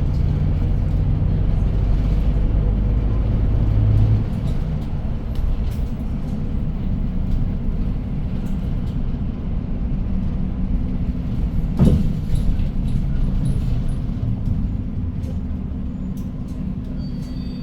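City bus running, heard inside the cabin: the engine's low drone with road noise, the engine note dropping about four seconds in. A single knock comes about twelve seconds in.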